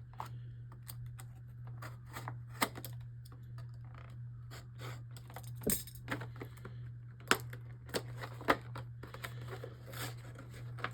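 Hands unpacking a Beyblade Burst dual-pack box: scattered clicks, taps and rustles of cardboard and plastic packaging and loose plastic parts. A steady low hum runs underneath.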